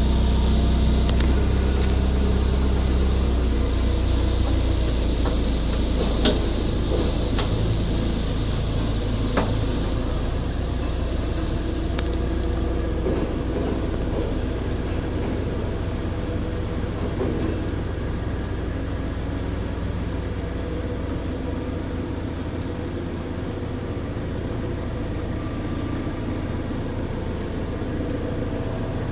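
Steady low machinery rumble and hum, with a few sharp clicks in the first third.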